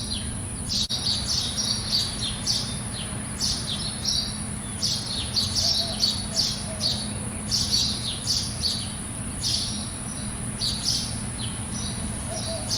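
A bird chirping over and over in short high chirps, about one or two a second, over a steady thin high-pitched tone and a low background rumble. There is a single sharp click about a second in.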